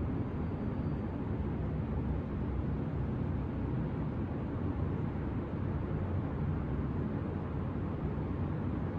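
Steady low hum of distant city traffic, with no single vehicle standing out.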